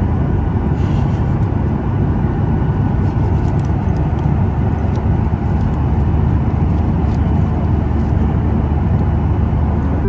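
Airliner cabin noise: the steady, loud rumble of the jet engines and rushing air heard from inside the plane.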